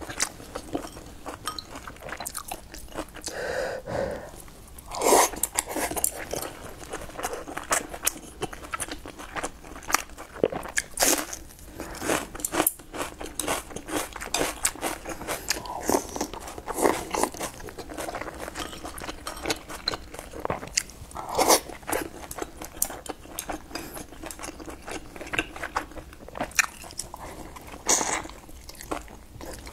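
Close-up chewing and biting of soft steamed buns: a steady run of small mouth clicks, with a few louder bites spread through.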